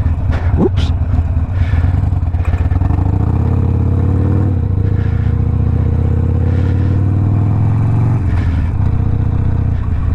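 Harley-Davidson Sportster Iron 1200's air-cooled V-twin through a Two Brothers 2-into-1 exhaust, pulling away with the engine note rising for a couple of seconds, then holding steady. The note drops about eight seconds in.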